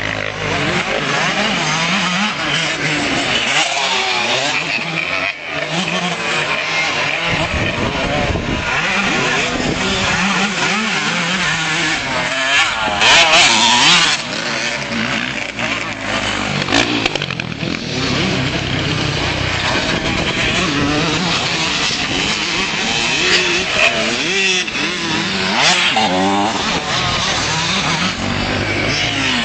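Several motocross bikes' engines revving up and down as they race around the track, overlapping throughout, loudest as one passes close about 13 seconds in.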